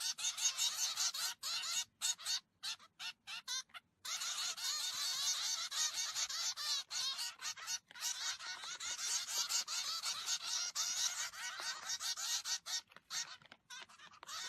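Birds chirping and chattering in a dense, rapid stream of high calls, broken by abrupt silent gaps about two to four seconds in and again near the end.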